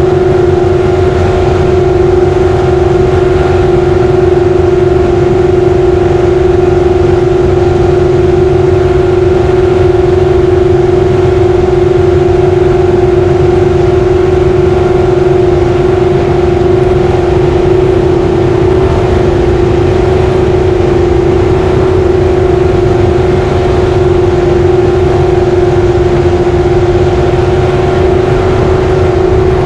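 Racing jet boat engine running hard at a loud, steady pitch, with a constant low rumble beneath and no rise or fall in pitch.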